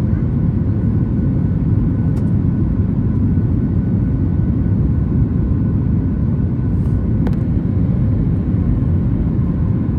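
Boeing 737 MAX 8 cabin noise during the climb after takeoff: a steady deep rumble of the engines and airflow, with faint steady tones on top and a couple of faint ticks.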